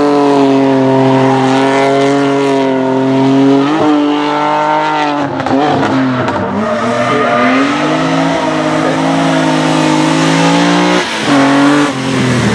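Race car engine at full throttle, its pitch climbing and then falling back again and again as it accelerates, lifts off and shifts between the slalom gates.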